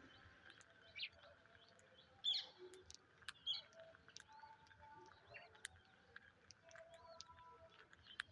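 Faint, scattered short bird chirps and calls, a few seconds apart, with the clearest pair about two and three and a half seconds in.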